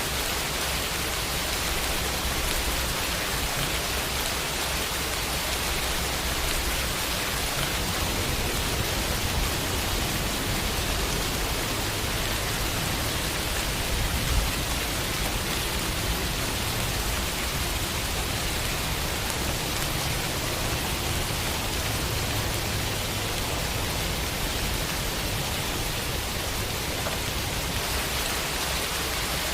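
Steady rain falling on a window, an even hiss of rainfall with a slightly louder splash about 14 seconds in.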